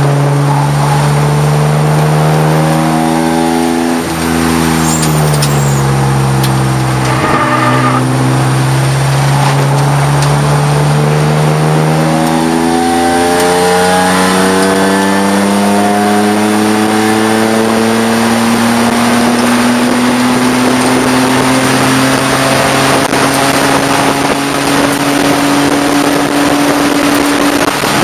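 Race car engine heard from inside the cockpit, worked hard: the revs fall around four seconds in and drop again about seven to eight seconds in, then climb steadily in one long pull for the rest, over road and wind noise.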